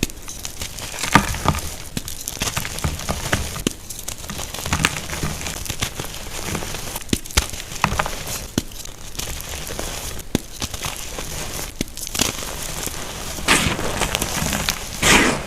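Blocks of unpolished gym chalk (magnesium carbonate) being crushed, a dense crackling and crumbling of small sharp cracks, with a few louder crunches near the end.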